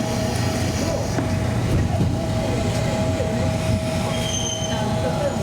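Electric train: a steady low hum with a constant high whine.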